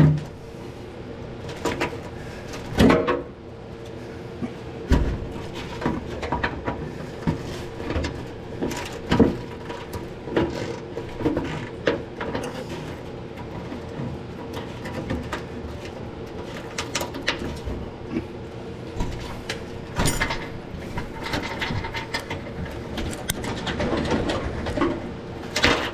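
Irregular metallic clicks, clanks and knocks from hand tools working on the truck's front-end bolts.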